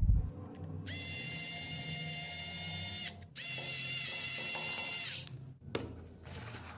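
A small electric motor whining at a steady high pitch in two runs of about two seconds each, with a short break between them.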